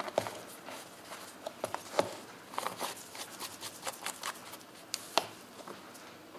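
Irregular light clicks, taps and clinks of small hard objects being handled, the sharpest knocks about two seconds in and again about five seconds in.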